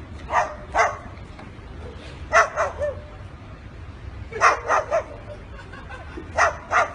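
Dog-like barking: short, yappy barks in groups of two or three, one group about every two seconds.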